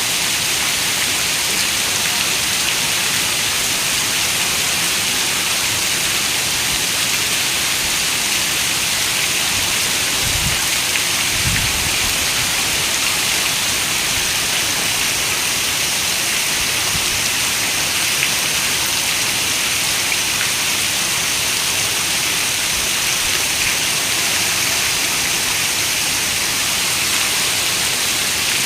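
Steady rain falling: an even, unbroken hiss with no letup. A brief low rumble comes twice, a little over ten seconds in.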